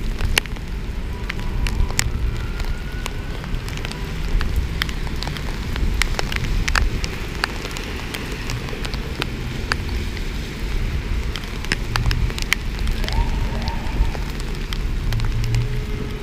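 Heavy rain pouring, with drops striking the camera as frequent sharp ticks over a steady hiss and a low rumble. A siren starts to wail faintly near the end.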